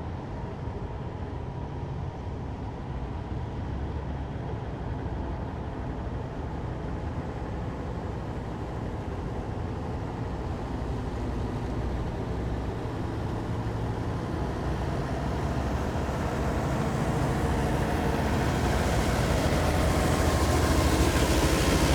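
Heavy military vehicle engines running with a low, steady drone, growing louder through the last several seconds as a vehicle approaches, with a rising rushing noise of its passage near the end.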